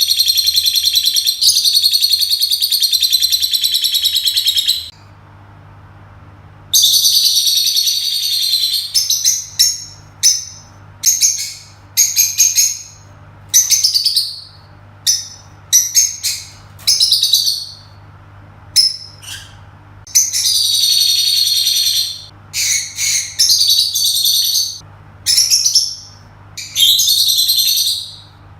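Pet lovebirds chattering shrilly: a long run of rapid high chirping, a pause of about two seconds, then bursts of short sharp chirps mixed with longer chattering runs. A faint low steady hum lies underneath.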